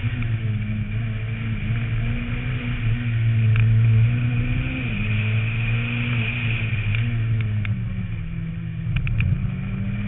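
Renault Mégane rally car's engine running hard at high revs, heard from a roof-mounted camera. The revs climb a little about four seconds in and drop briefly near the end, with a few short sharp ticks.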